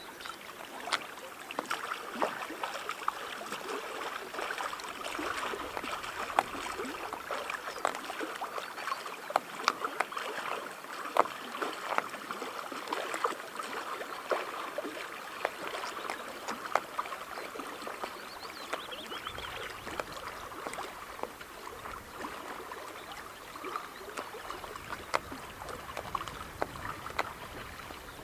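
Water splashing and dripping around a kayak being paddled, with many small drips and splashes scattered throughout.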